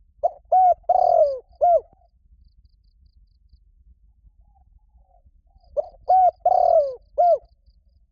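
Spotted dove cooing: two identical phrases about six seconds apart, each of four notes, the third note longer and falling.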